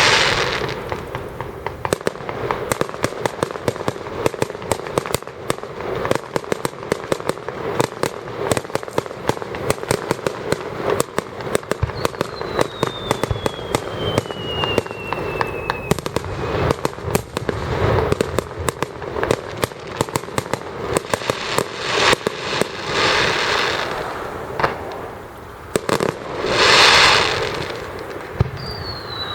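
Fireworks display: a dense, continuous crackle of many small bursts, with louder swelling bursts now and then. A falling whistle sounds about twelve seconds in and again at the very end.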